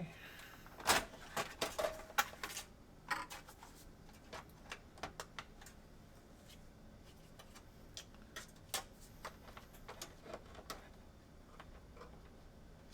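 Irregular clicks and knocks of PS4 console parts being handled during disassembly. They are busiest in the first few seconds and thin out to occasional taps.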